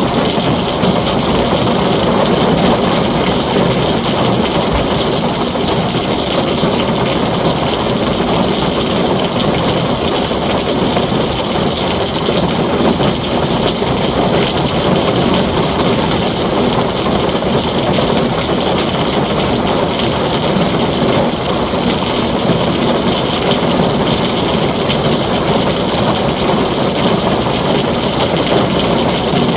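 Heavy rain on a tin roof, a dense, steady hiss and patter with no single drops or thunderclaps standing out.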